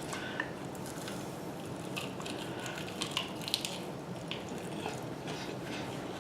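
Close-miked chewing and biting of pizza and chicken wings, with scattered wet mouth clicks and crackles, densest about three seconds in, over a steady background hum.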